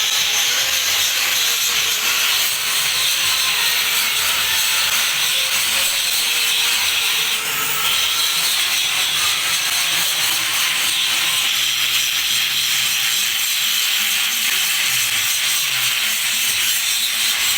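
Rotary dryer running: a steady, loud rushing and rubbing noise with no breaks.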